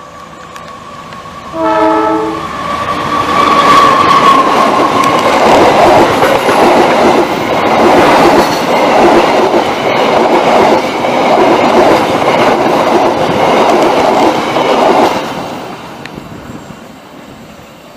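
A passenger train's diesel locomotive gives one short horn blast of about a second, then the train runs past close by with a loud, steady rumble and rhythmic clickety-clack of wheels over the rail joints. The sound fades away near the end as the train moves off.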